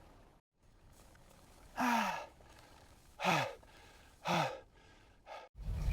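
A man sighing or groaning three times, about a second apart, each breath falling in pitch. Near the end a vehicle engine starts running steadily.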